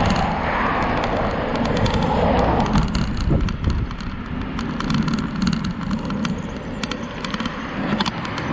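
Wind buffeting the microphone of a moving bicycle, with tyre noise and irregular rattling clicks from the bike, thickest in the middle and later part.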